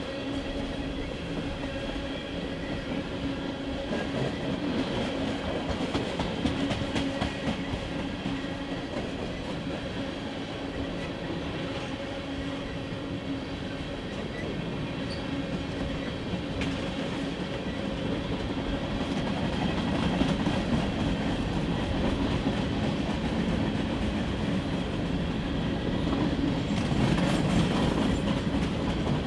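CSX freight train rolling past, its cars' wheels running steadily over the rails and growing a little louder in the second half.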